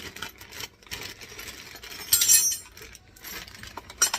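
Garbage disposal parts clinking and rattling as they are handled. A louder short clatter comes about two seconds in.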